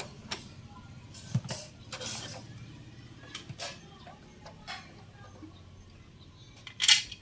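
Scattered clicks, taps and light scrapes of sewing machine parts being handled while a part is taken off the underside, with one sharper, louder click near the end.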